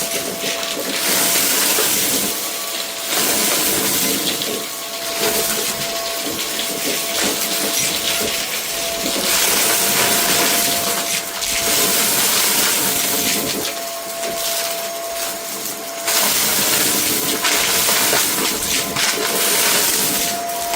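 Vacuum cleaner running: a loud rush of air over a steady motor whine, swelling and dipping every couple of seconds.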